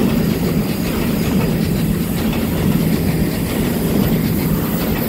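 Taiwan Railway EMU900 electric multiple unit running past close by, a steady noise of its wheels on the rails as car after car goes by.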